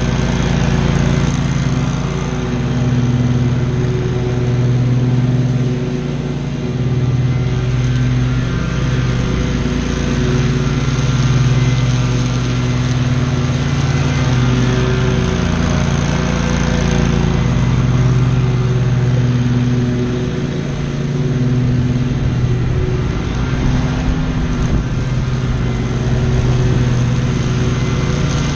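Lawn mower engine running steadily under load while cutting tall grass, its pitch wavering slightly.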